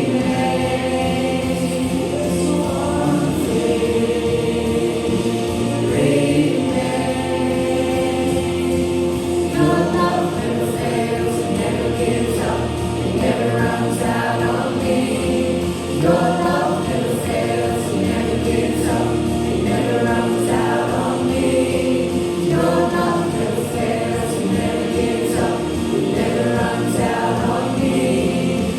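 Church worship music: a group of voices singing together over steady held chords.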